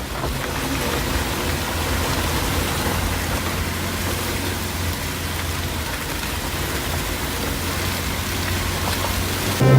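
Rain falling in a steady hiss, with a low steady hum underneath.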